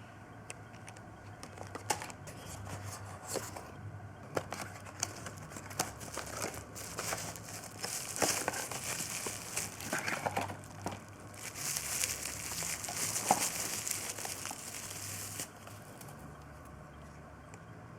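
Plastic packaging crinkling and rustling in irregular bursts, with small clicks and knocks, as parts are unpacked by hand. It stops abruptly a few seconds before the end, leaving only a faint low hum.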